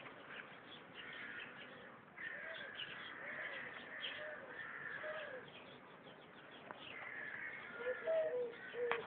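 Faint bird calls: a low cooing note repeated about every half second, with higher chirps over it.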